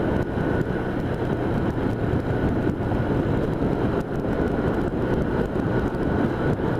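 1978 Honda Hawk 400's parallel-twin engine running steadily while riding, with wind rushing over the microphone.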